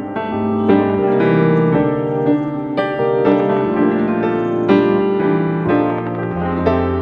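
Background piano music: notes struck at a steady pace over held bass notes.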